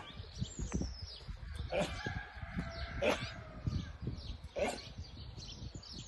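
Birds chirping outdoors, with three short louder calls about a second and a half apart, over a low rumble of wind on the microphone.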